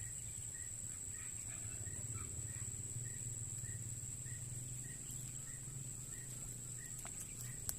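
Outdoor insect chorus: a steady high-pitched drone, with a short high note repeating about twice a second and a low steady rumble underneath.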